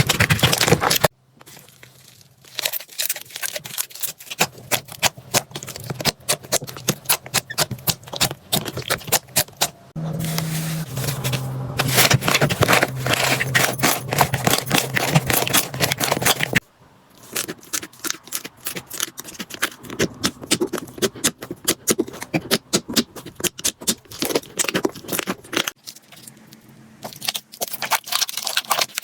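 Slime being squeezed and poked by hand, giving a dense run of small wet clicks, pops and crackles. The sound changes abruptly several times as one clip cuts to the next.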